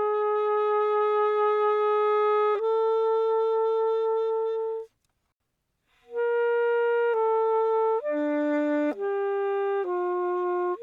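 Selmer Paris Jubilee Series III alto saxophone playing a slow unaccompanied melody, dry with no added effects. Two long held notes come first, then a breath pause of about a second, then a phrase of shorter notes.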